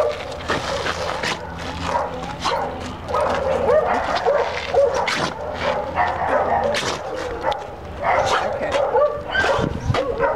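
Dog barking and yipping repeatedly, with short high calls coming in quick succession throughout.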